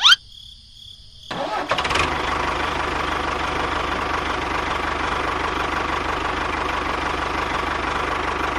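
A small engine or motor starting up about a second and a half in and then running steadily, after a brief rising chirp right at the start.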